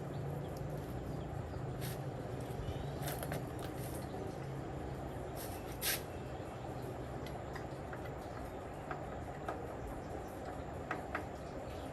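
Steady background noise with a low hum that fades over the first few seconds, and scattered light clicks and taps, the loudest about six seconds in.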